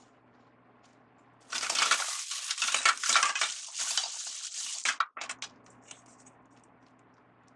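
Close handling noise: a dense run of crackling, crunching and clinking that starts about one and a half seconds in and lasts about three and a half seconds, ending with a few separate clicks.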